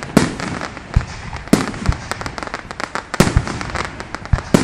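Fireworks going off: an irregular string of sharp bangs, some much louder than others, with many quicker small cracks between them.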